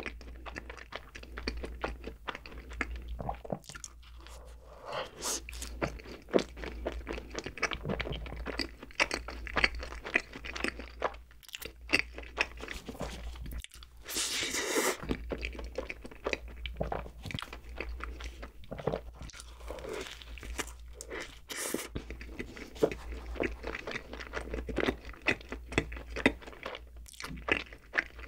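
Close-miked eating of cream-filled, sugar-dusted bread: repeated bites with crisp crackling crunches and moist chewing, and a denser run of crunching about halfway through.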